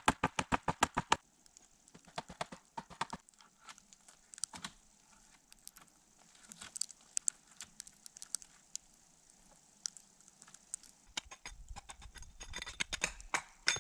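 Steel axe hewing an ice-coated log: a quick, even run of knocks at about five a second for the first second, then scattered lighter knocks.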